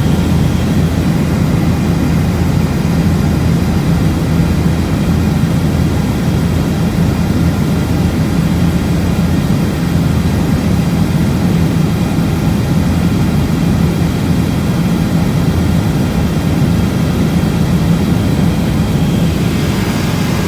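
Helicopter's engine and rotor running, a steady, loud, low drone with no change in pitch.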